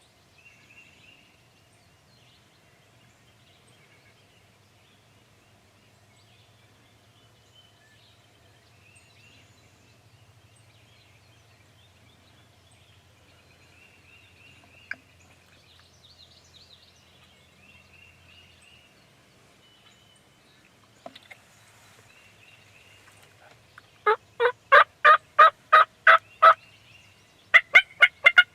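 Faint high chirps, then near the end two loud runs of rapid pulsed calls, each a couple of seconds long at about four notes a second, from a bird.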